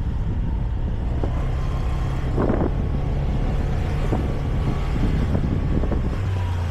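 Motorbike engine running steadily under way, with road noise; its note shifts about six seconds in.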